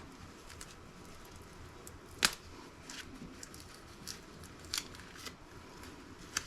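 Faint, sparse clicks and light taps of small laptop parts and circuit boards being handled on a work surface, with one sharper click a couple of seconds in.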